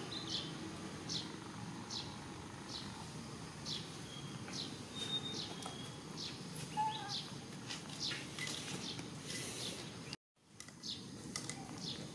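A bird repeating a short, high chirp about once a second over steady outdoor background noise. The sound cuts out completely for a moment about ten seconds in.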